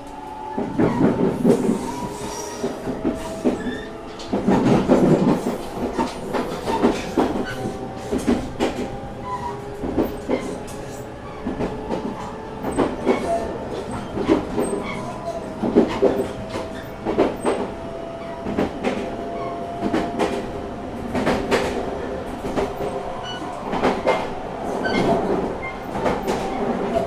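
JR Shikoku 8000 series electric train running at speed: a motor whine slowly rising in pitch as it gathers speed, with wheels knocking and clattering over the rail joints.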